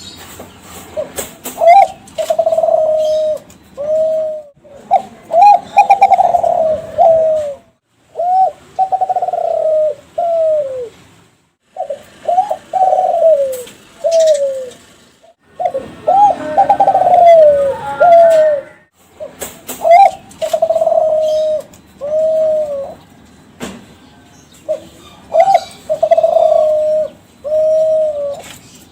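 Derkuku Kelantan (spotted dove, tekukur) cooing. It sings about seven phrases, each a run of three to five short coos, with brief pauses between the phrases.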